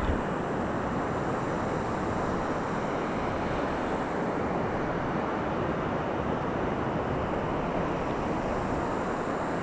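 Steady, even rushing noise of a large waterfall's falling water.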